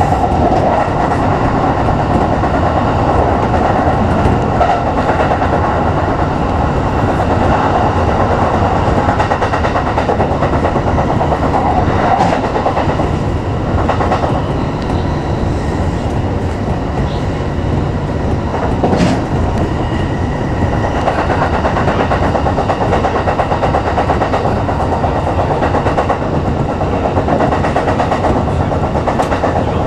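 Kintetsu electric express train running at speed, heard from inside the front car. A steady rumble of wheels on the rails, with a couple of sharp clicks in the middle.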